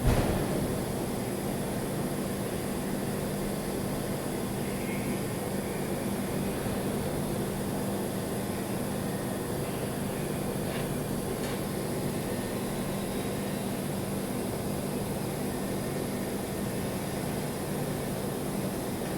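Welding on stainless steel pipe: a steady, even buzzing hum and hiss of the arc and welding machine, with a sharp knock right at the start.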